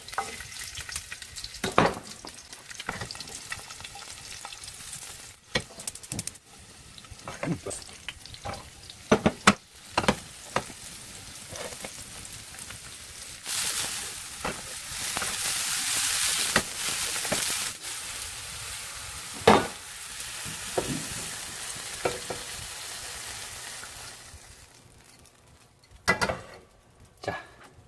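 Mushrooms and garlic sizzling on a hot grill over a charcoal fire, with frequent clicks and scrapes of the cooking utensils. The sizzle grows louder about halfway through, then dies down near the end, where a few sharp knocks are heard.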